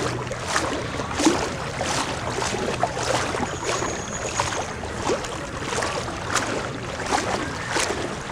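Floodwater splashing and sloshing in irregular slaps, with a constant rush of water underneath.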